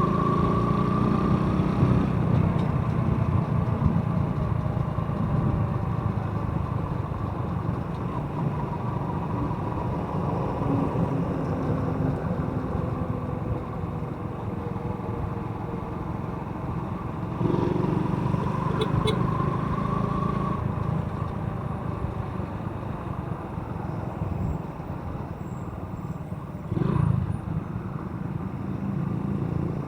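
Motorcycle engine running under way, with a steady rumble and engine pitch rising and falling a couple of times as it speeds up and eases off.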